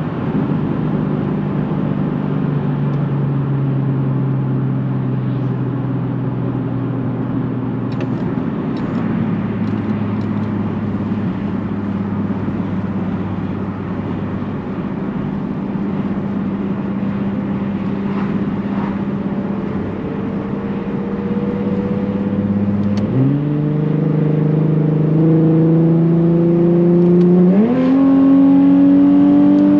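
Nissan 370Z's 3.7 L V6 through a Tomei titanium catback exhaust, holding a steady note at cruise for most of the time. Near the end the engine note jumps up sharply twice and climbs, getting louder as the car accelerates.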